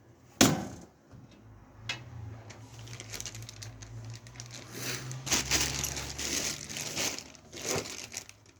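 Hands handling and fitting computer parts: a sharp knock about half a second in, a lighter click, then several seconds of rustling and crinkling that fades near the end.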